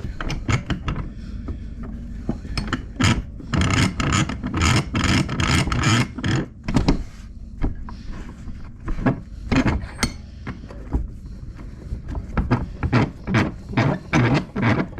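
Hand tool working rusted exhaust metal in repeated rasping strokes, several a second in uneven runs, pausing briefly twice.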